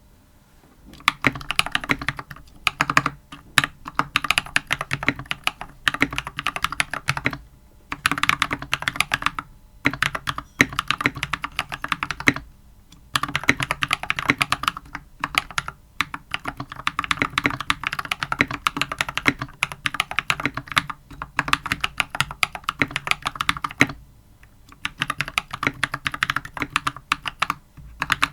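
Typing on an Anne Pro 2 mechanical keyboard fitted with Glorious Panda tactile switches, foam dampeners and stock keycaps: fast runs of keystrokes in bursts of a few seconds with short pauses between, starting about a second in.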